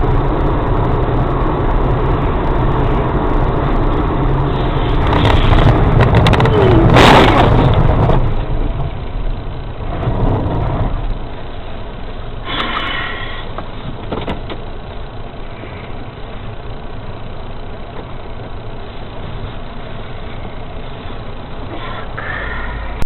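Car on the road heard through a dash camera's microphone: steady engine and road noise, swelling louder for a few seconds about five seconds in.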